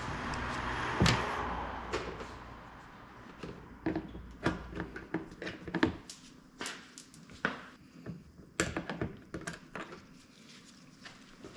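A hiss for about the first two seconds, with a sharp knock about a second in, then uneven clicks and knocks of hand tools and parts being handled against metal, as in work on a car's front suspension.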